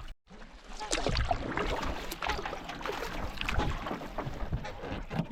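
Canoe being paddled: irregular splashing, paddle dips and dripping water, starting after a brief break near the start.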